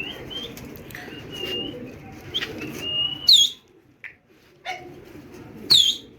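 Domestic pigeons' wings flapping and rustling as the flock comes back in and lands, with short chirps and two loud, sharp bird calls about three seconds apart.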